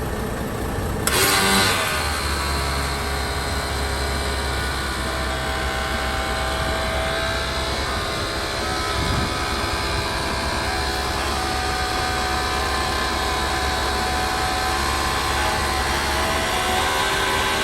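Isuzu 6UZ1 inline-six diesel truck engine idling steadily, with a short burst of noise about a second in.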